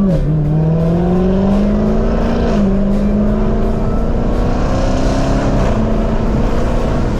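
Supercharged 6.2 L HEMI V8 of a Dodge Challenger SRT Hellcat under hard acceleration through its automatic gearbox. The engine note climbs and drops sharply at each upshift: near the start, about two and a half seconds in, and about five and a half seconds in.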